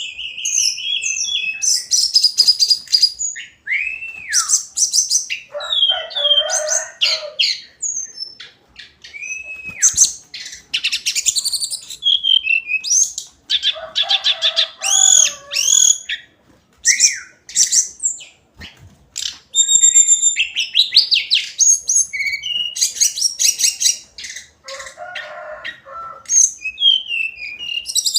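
Hill blue flycatcher singing a varied song of quick whistled notes that slide up and down, with rapid trills, in phrases broken by short pauses. Three times a lower, harsher chattering phrase is mixed in.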